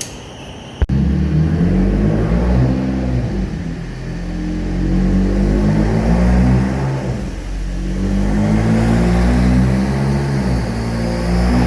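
Car engine revving and accelerating hard, cutting in suddenly about a second in, easing off briefly and then pulling again near the middle.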